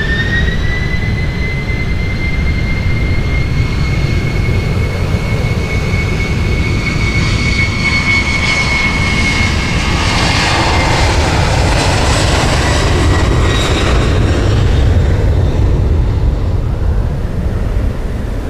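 Jet airliner's engines running loud: a high whine over a deep rumble. The whine climbs in pitch at the start, then holds steady and eases slightly past the middle, while the rumble stays heavy until near the end.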